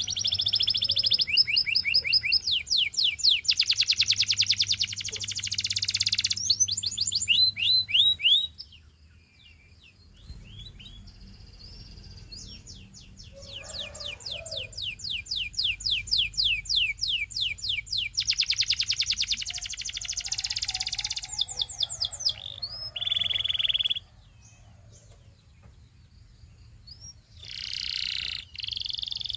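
Domestic canary singing: long runs of fast, high, repeated trills and rolls. The song breaks off briefly about eight seconds in and again for a few seconds near the end.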